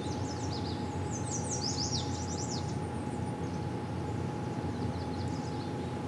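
A songbird singing in quick runs of short, high, falling notes, once about a second in and again near the end, over a steady low outdoor rush with a faint steady hum.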